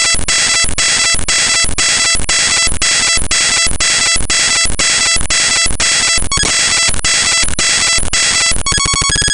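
Raw bytes of the Windows type-library file mshtml.tlb played directly as audio: loud, harsh noise with a stack of steady beeping tones that pulse about three times a second, like a store checkout scanner. Near the end it breaks into a faster run of clicks.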